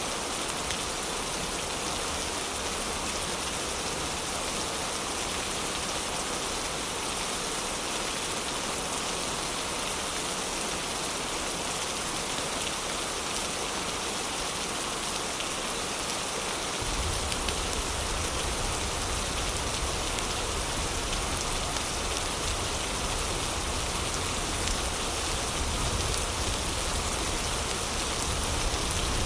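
Heavy rain falling steadily in a dense, even hiss. About two-thirds of the way through, a deep low rumble joins it and stays.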